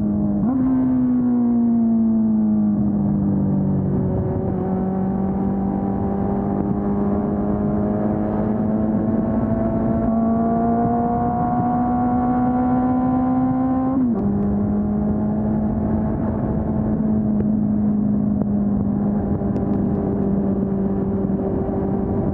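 Honda CB400 Super Four's inline-four engine on the stock exhaust, under way: the revs jump up about half a second in and then fall away, climb slowly for about ten seconds, and drop suddenly about two-thirds through at a gear change, then hold steady.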